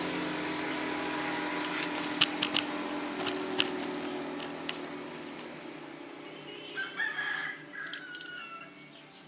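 A rooster crows about seven seconds in. Under it an engine hum fades away steadily, and a few sharp clicks come around two to three and a half seconds in.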